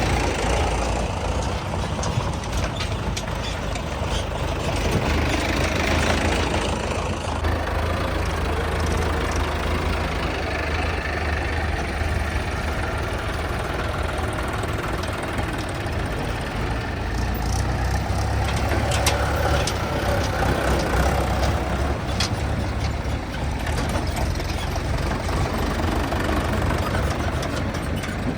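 Diesel tractor engines running at a work site, a steady low hum that swells and eases now and then as the loader works, with a few short knocks.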